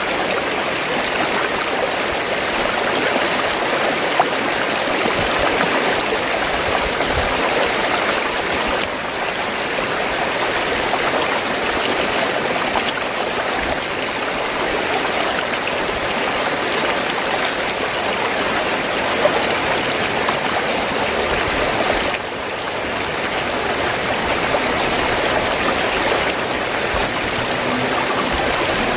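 Fast-flowing stream water rushing and gurgling in a steady, continuous wash.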